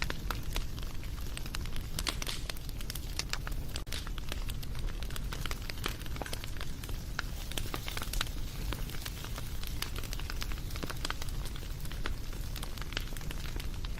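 Wood fire crackling: frequent irregular sharp pops and snaps over a steady low rumble of flames.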